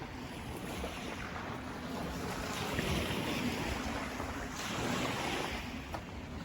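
Steady rushing of wind and water, swelling about three seconds in and again near five seconds.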